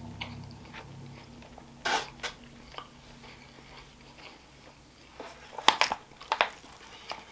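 Close-up mouth sounds of a person chewing and biting food. Near the end comes a quick run of sharp clicks and scrapes as a plastic fork digs into a foil takeout tray.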